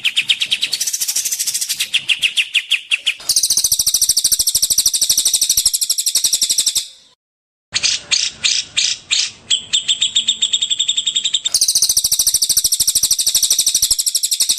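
Songbird masteran recording of cililin, cucak jenggot and kapas tembak: fast, evenly repeated chirping trills that switch pitch and pattern several times. The sound cuts out completely for under a second about halfway through, then resumes.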